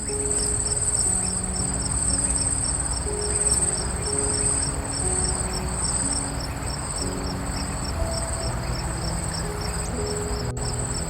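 An insect, cricket-like, trilling: a steady, high-pitched song that runs unbroken and stops suddenly just after the end.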